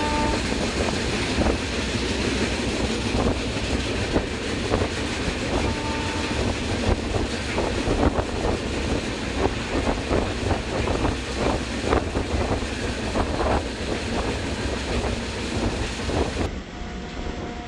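Passenger train running, heard from on board: a steady rumble of wheels on rail with a quick, uneven series of clicks as the wheels pass over rail joints.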